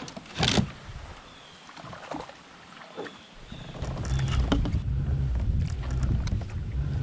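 A pedal kayak's hull knocks and bumps, then from about halfway through a low steady rumble with scattered clicks sets in as the pedal drive turns and the boat gets under way.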